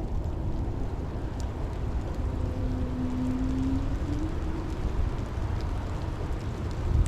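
Steady rain with a heavy low rumble, with faint scattered drop ticks on top. A faint steady hum sits underneath and briefly grows stronger and bends upward about three to four seconds in.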